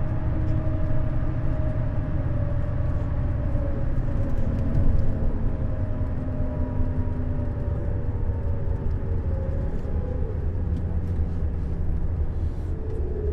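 Neoplan Skyliner N 1122/3C double-decker coach driving along: a steady low engine and road rumble, with faint tones that slowly drift lower in pitch.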